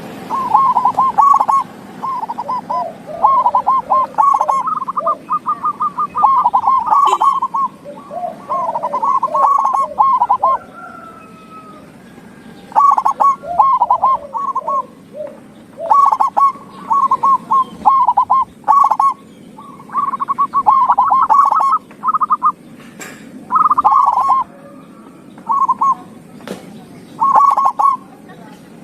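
Zebra dove (perkutut) cooing: phrases of rapid, stuttering coo notes repeated over and over with short pauses, with lower notes overlapping at times. A couple of sharp clicks come in the second half.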